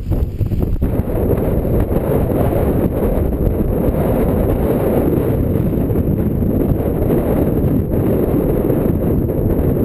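Strong wind buffeting the microphone: a loud, steady, rumbling roar with no let-up.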